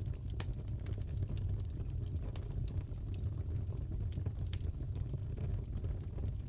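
Crackling fireplace: a steady low rumble of burning wood with irregular sharp pops and crackles scattered through.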